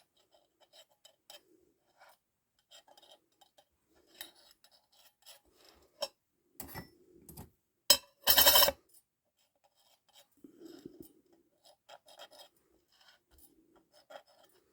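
Metal clutch plates and a feeler gauge handled on a sheet of glass while the plates are checked for warpage: light scrapes, taps and clicks, loudest a sharp click about eight seconds in followed by a half-second clatter.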